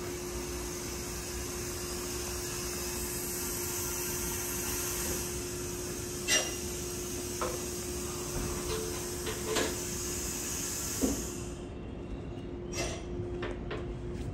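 JR 285 series Sunrise Express electric sleeper train pulling slowly up to the platform: a steady hiss with a low hum beneath and a few sharp clicks, the hiss cutting off about eleven seconds in as the train stops.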